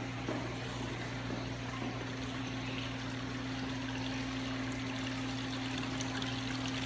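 Water trickling steadily over a constant low electric hum.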